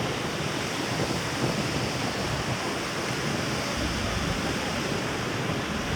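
Steady rushing seaside ambience of surf and wind, with wind buffeting the microphone.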